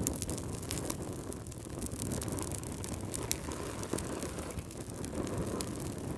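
Fireplace fire crackling: a steady low rumble with scattered sharp pops and snaps.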